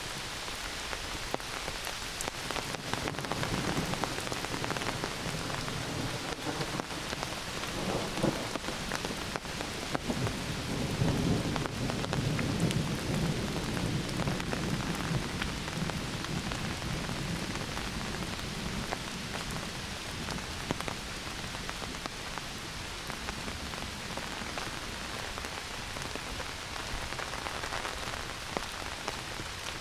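Heavy rain falling steadily, with fine drop ticks. A long roll of thunder builds a few seconds in, is loudest around the middle, and fades away well before the end.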